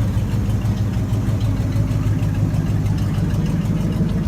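Car engine idling with a loud, steady low rumble.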